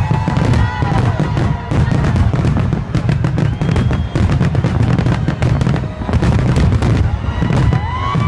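Aerial fireworks bursting in rapid, continuous succession: a dense run of booms and crackles with no gaps. Rising whistles are heard a few times, near the start and again near the end.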